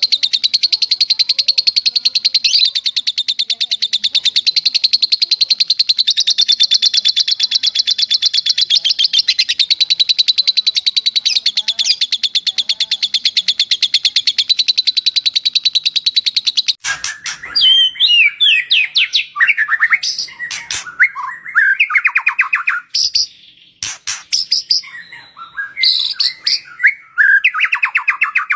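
Recorded cage-bird song: a long, very fast, unbroken high-pitched trill lasting about seventeen seconds, then breaking into varied whistled phrases that glide up and down with short pauses between them.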